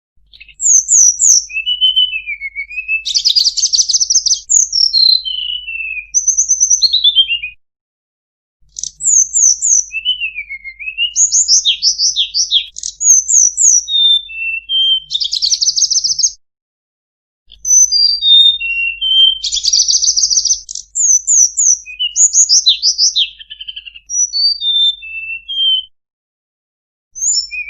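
Tledekan gunung songbird singing a varied song of quick high whistles, descending slurred notes and fast buzzy trills, in runs of several seconds broken by short pauses of about a second.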